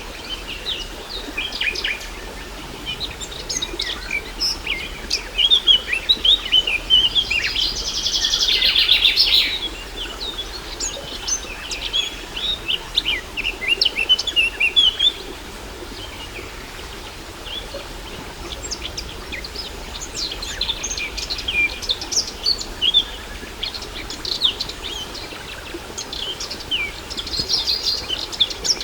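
Several birds chirping and singing in quick, overlapping calls, with a dense fast trill lasting about two seconds around eight seconds in. A faint steady rush of falling water runs underneath.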